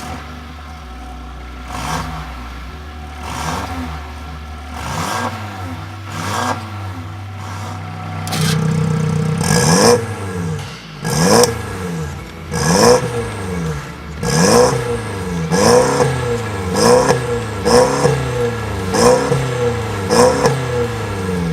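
A Mercedes-Benz GLC250's turbocharged four-cylinder engine is revved again and again through an aftermarket catback exhaust with remote-controlled valves and a catalytic downpipe. At first the revs are spaced out. From about eight seconds in they come harder and quicker, about one every second and a half, each rising and falling in pitch.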